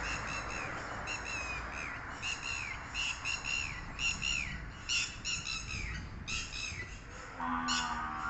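A bird calling over and over, short calls that rise and then fall in pitch, coming in quick runs of two to four. Near the end a steady low pitched tone sounds for about a second.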